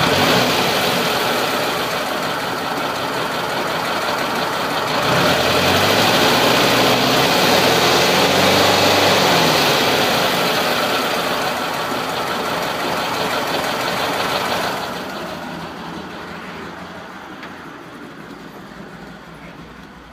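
VW-Porsche 914's fuel-injected, air-cooled engine being revved. It rises in speed about five seconds in and is held up for several seconds, then eases off. The sound drops sharply about fifteen seconds in and fades.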